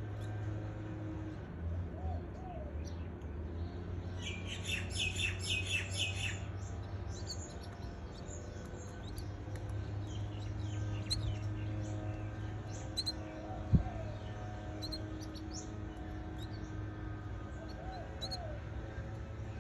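Canaries chirping: a quick run of high chirps about four seconds in, then scattered short cheeps. Under them runs a steady low hum, and there is a single sharp click a little past halfway.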